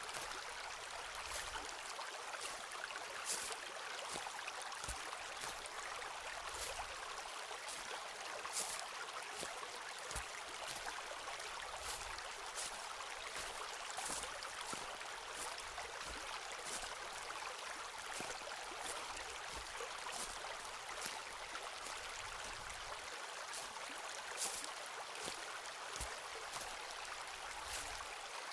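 Stream water running steadily, with scattered small clicks and ticks at irregular moments.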